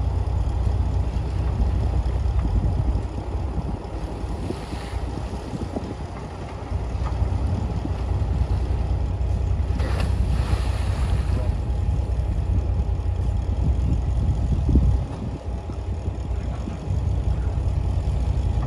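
Diesel engine of heavy earthmoving machinery running under load: a steady low rumble that eases off twice, around a third of the way in and again near the end.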